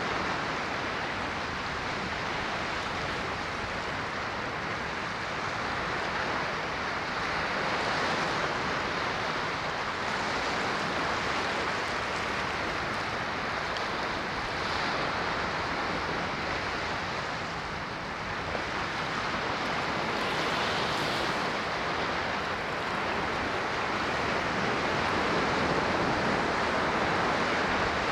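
Ocean waves washing ashore as a continuous surf hiss, swelling and easing gently every few seconds.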